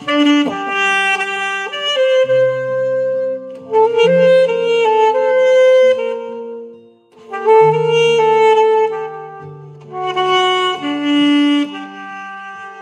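Instrumental music: a saxophone plays a slow melody in long held phrases over a backing track with sustained low bass notes, pausing briefly between phrases, most clearly about seven seconds in.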